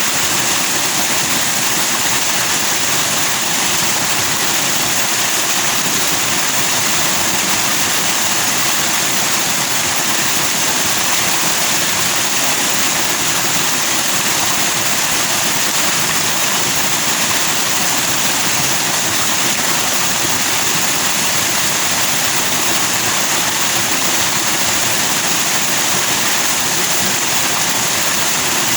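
Forest stream rushing over rocks in white foam, a steady even rush of water.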